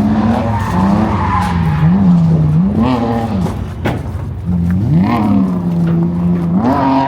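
A drift car's engine revving up and down again and again as the driver works the throttle through a slide, with tyres screeching in short spells.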